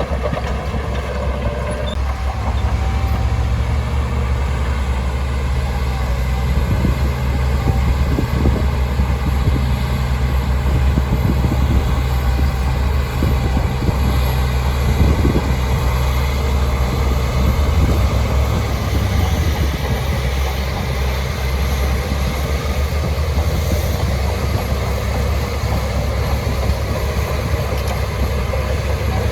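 Shantui DH17C2 crawler bulldozer running steadily under load, a low diesel drone that strengthens about two seconds in, with the clatter of its machinery.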